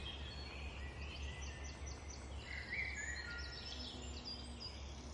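Faint ambience of small birds chirping and twittering in short high notes and quick trills, over a low steady hum.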